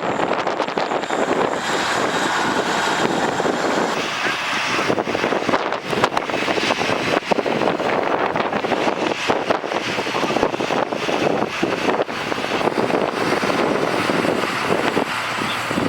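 Steady rush of blizzard wind and blowing snow, swelling and easing unevenly, with a few sharp knocks of gusts buffeting the microphone.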